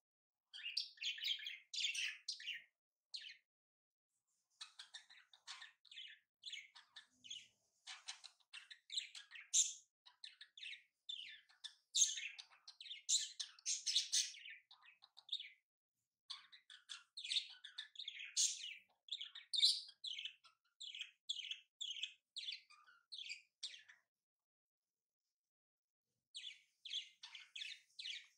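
Birds chirping and twittering in quick, high runs, falling silent twice for a second or two.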